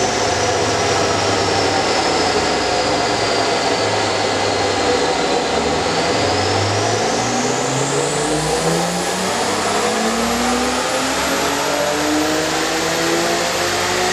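Mitsubishi 6A12 MIVEC V6, turbocharged with a TD04L, running steadily and then revving smoothly upward from about six seconds in, with a thin high whine that climbs along with it.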